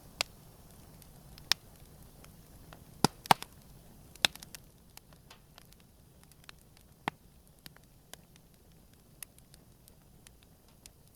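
Campfire crackling: sharp, irregular pops and snaps of burning wood, loudest in a cluster about three seconds in and growing sparser in the second half, over a faint low hiss of the flames.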